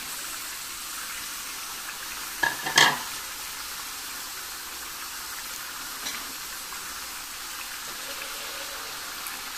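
Mutton chops and onions sizzling steadily in a hot iron karahi. Halved tomatoes tipped into the pan make a short thump about two and a half seconds in.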